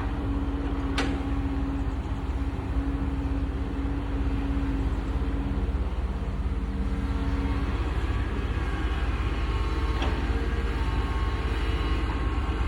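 Excavator running steadily under load, a constant low rumble with steady whining tones that shift in pitch about eight seconds in. Two sharp knocks, about a second in and again near ten seconds.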